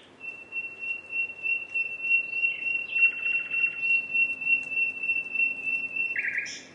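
Common nightingale singing: one long high whistled note that throbs a few times a second, broken by short buzzy rattles near the middle and again at the end.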